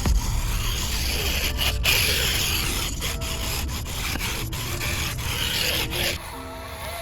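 Rubbing and scraping of hand craft work in repeated strokes; it eases off about six seconds in.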